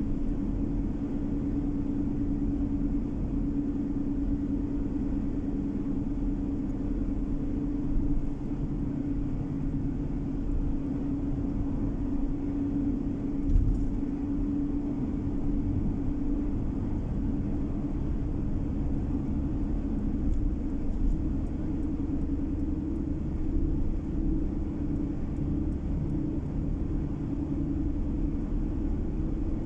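Steady engine drone and tyre road noise heard from inside a moving car, with a brief thump about 13 seconds in.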